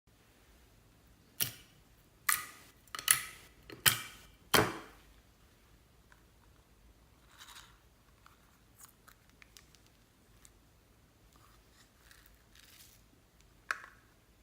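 Clear slime mixed with floam and beads being squeezed and worked by hand. It gives about six sharp pops in the first five seconds, then softer crackling, and one more pop near the end.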